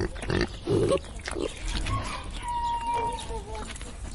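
Farm animal calls: a few short low sounds in the first second, then a thin held tone about halfway through.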